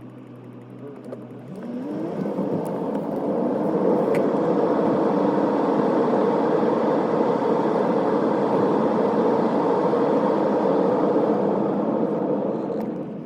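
Toyota Crown Athlete's V6 engine pulling away from idle, its pitch rising as the car gathers speed. Then steady engine and road noise while cruising, easing off near the end.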